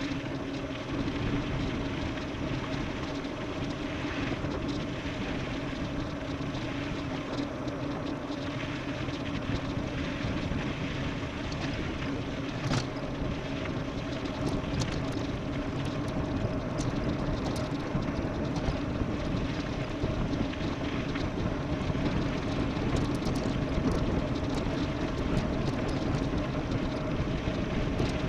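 Wind rush and tyre noise from an e-bike descending at speed: a steady rushing noise with a constant low hum. Scattered small ticks join in during the second half.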